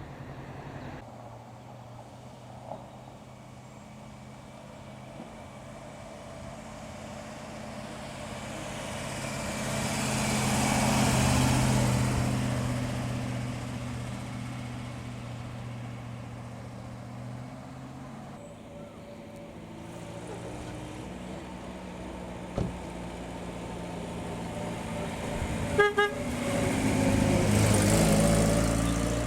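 Classic cars driving past one after another, their engines running, one swelling loudest and fading about a third of the way in and another near the end. Just before the last car passes, a horn gives two short toots.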